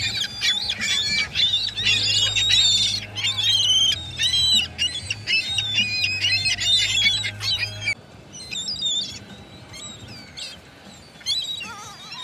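A flock of gulls calling, many squawking calls overlapping. About eight seconds in it changes abruptly to fewer, quieter calls.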